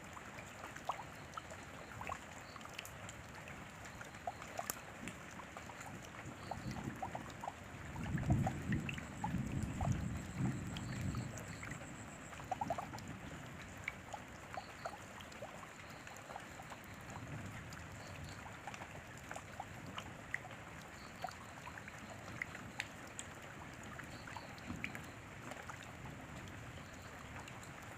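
Rain falling: a steady soft hiss with many separate drops ticking at random. About seven seconds in, a low rumble swells for a few seconds and then fades back.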